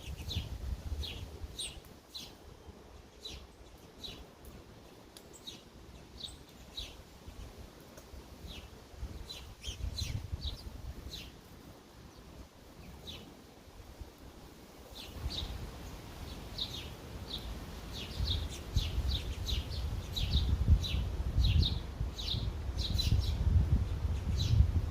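Sparrows chirping at a bird feeder: many short, repeated chirps that grow busier in the second half, over a low rumble that gets louder about halfway through.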